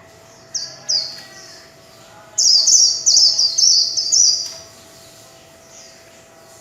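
White-eye (vành khuyên) singing: two short, high falling notes, then about two seconds of rapid, high twittering song, the loudest part, ending about halfway through.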